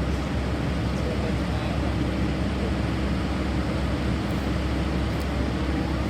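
Diesel engine of a Cat 320 GC hydraulic excavator running steadily, a constant low hum.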